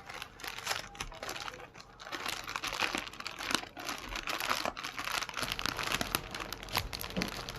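Wrapping paper crinkling and rustling as a package is unwrapped by hand, a dense run of crackles with a short lull about two seconds in.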